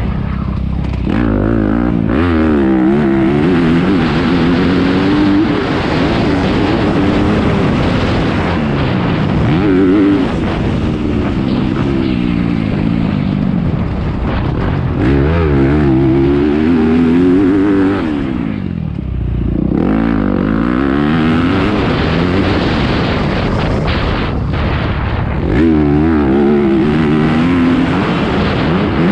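Motocross dirt bike engines revving hard, the pitch climbing and dropping again and again as the riders open and close the throttle and shift. There is a short lull about two-thirds through.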